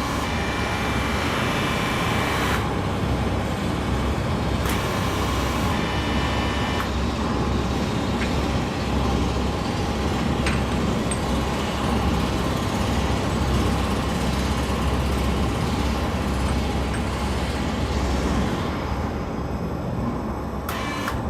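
Steady low rumble of heavy engines running, with stretches of higher hiss and whine for a couple of seconds near the start and again about five seconds in.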